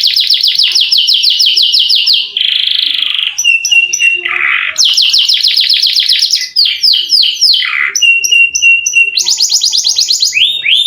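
Domestic canary singing a loud, unbroken song of long rolled trills of very fast repeated notes, broken by harsh buzzy notes, short repeated whistles and quick downward-sweeping notes.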